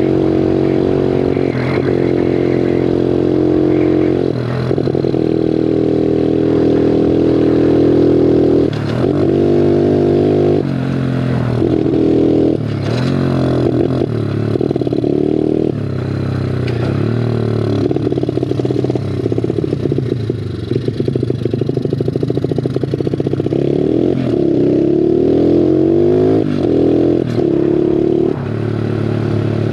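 Bigfoot 125 four-stroke pit bike engine running hard while ridden, its pitch repeatedly climbing under throttle and then dropping abruptly.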